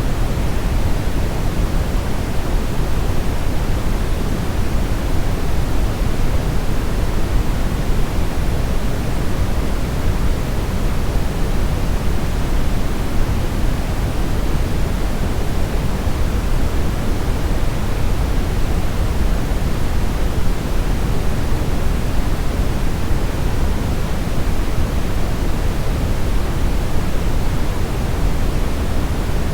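Steady brown noise: a constant, deep rushing hiss with most of its weight in the low end, unchanging throughout.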